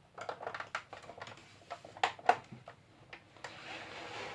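Small clicks and knocks of hard plastic parts being handled, as a rocket pod is worked off its mounting pegs on a 1/18-scale toy helicopter. The two loudest clicks come about two seconds in.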